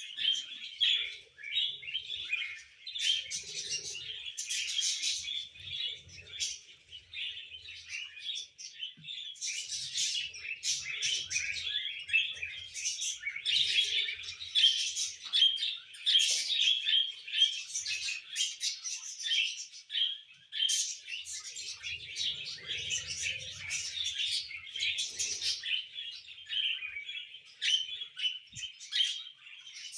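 Pet parrots chirping and chattering continuously: many quick overlapping chirps and warbles with no pause.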